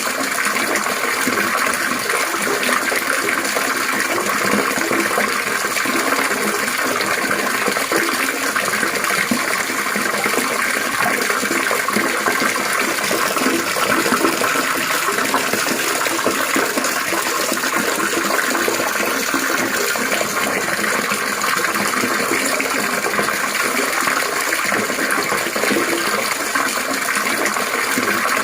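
Steady babbling of running water, trickling and splashing without a break.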